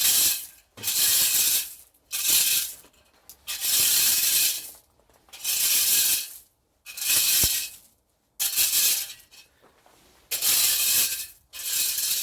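Hand scraper worked in repeated strokes over a hard surface, about nine rasping scrapes of roughly a second each, with short pauses between.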